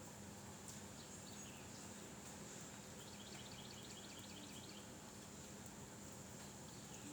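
Faint outdoor ambience with a steady hiss. A small bird gives a quick trill of rapid chirps about three seconds in, with a couple of short falling calls before and after.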